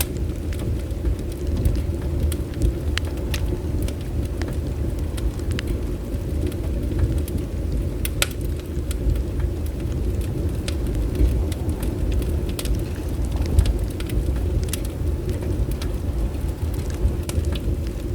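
Bonfire burning, with sharp irregular crackles and pops over a steady low rumble.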